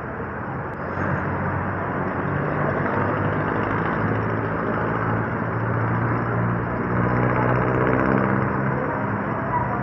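A motor vehicle's engine running with a steady low hum, louder from about a second in, over outdoor background noise.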